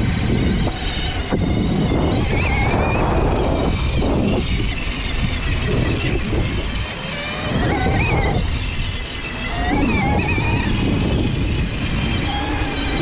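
Bafang BBS-HD mid-drive e-bike motor whining under power, its pitch rising and falling several times as the rider works the throttle, over heavy wind rush on the microphone.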